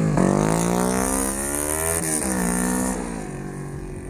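Kawasaki Ninja 250's parallel-twin engine revved through a slip-on aftermarket muffler: it climbs steadily for about two seconds, drops back, and settles to idle near the end.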